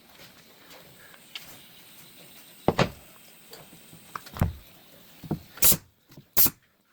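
A series of separate, irregular knocks and clacks over a faint background. They start about a third of the way in and grow louder toward the end.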